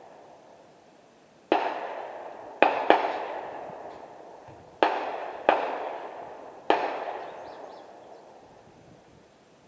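Six gunshots over about five seconds, each followed by a long echoing tail. Two come barely a quarter of a second apart, so more than one gun is firing.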